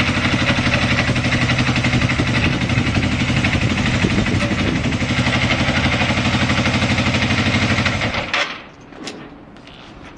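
Yamaha XS400 parallel-twin motorcycle engine idling steadily, which the seller describes as a stable idle with no abnormal noises. About eight seconds in the engine is switched off and stops, leaving a few light clicks and knocks.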